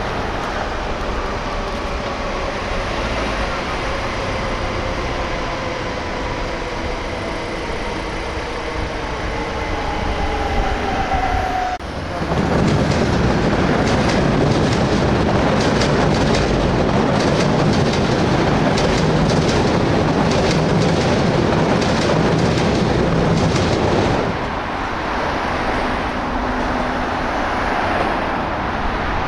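Electric train at a station: a whine of several tones falls slowly in pitch as the train slows. About twelve seconds in, the sound changes abruptly to a louder train running past, its wheels clicking rapidly over the rail joints, which eases off near the end.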